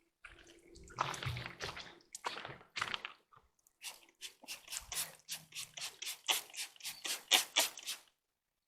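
Small hand scrub brush scrubbing wet, mildewed wood in short back-and-forth strokes, quickening to a steady two or three strokes a second in the second half.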